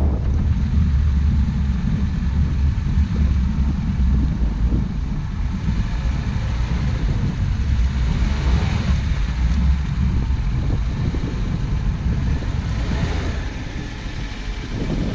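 Off-road vehicle's engine running with a steady low rumble, easing a little near the end.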